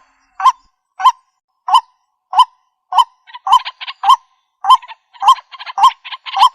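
Waterhen calling: a repeated short, harsh note, about one every 0.6 s at first, then faster with softer notes in between from about halfway through.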